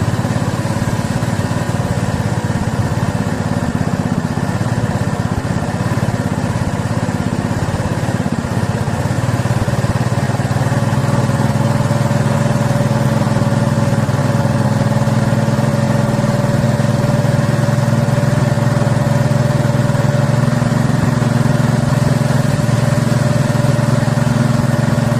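A small engine running steadily, a little louder from about ten seconds in.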